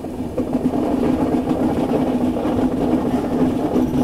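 Indian passenger train running steadily round a sharp curve, heard from aboard: a continuous rumble of the coaches' wheels on the rails.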